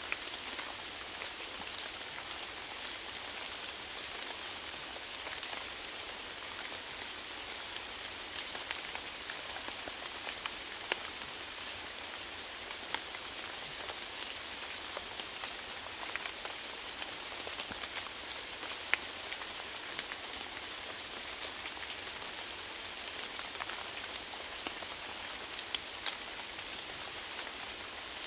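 Steady rainfall: an even hiss of rain with scattered louder drops striking a surface.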